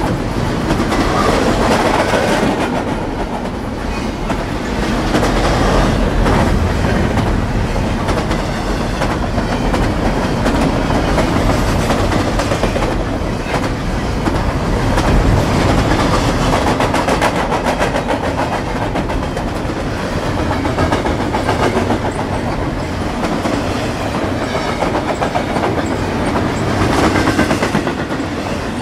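Double-stack intermodal freight cars rolling past: a steady rumble of steel wheels on rail, with rapid clickety-clack as the wheels cross the rail joints, swelling and easing slightly as the cars go by.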